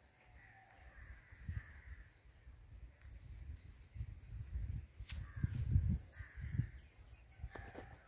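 Faint rural outdoor ambience: distant birds calling, with short high chirps in the middle and later, over irregular low rumbles.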